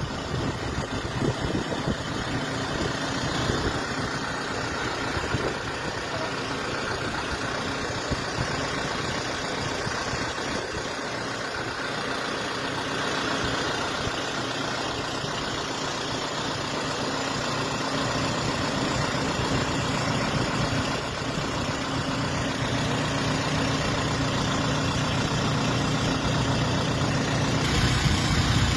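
Steady noise of a vehicle driving in the rain, heard from inside: engine and road noise with the hiss of rain and wet road.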